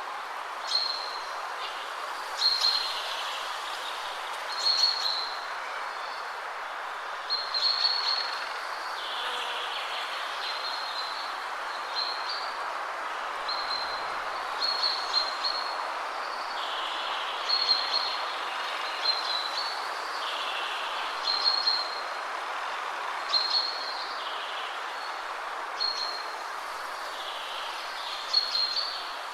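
Wind rushing steadily through trees, with a songbird repeating short, high chirping phrases every second or two.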